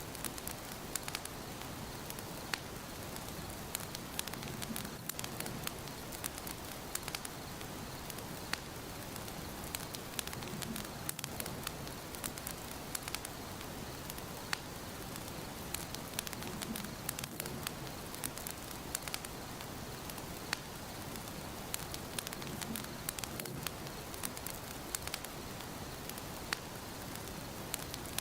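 Wood fire burning in a fireplace, crackling steadily with frequent sharp, irregular pops and snaps over a soft hiss.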